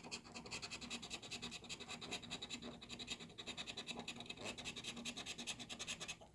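Scratching the coating off a scratch-off lottery ticket in quick, rapid strokes, which stop near the end.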